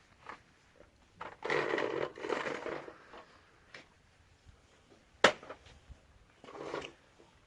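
Plastic sheeting rustling and crinkling as it is handled, in two bursts, then a single sharp knock a little after five seconds in, and a shorter rustle near the end.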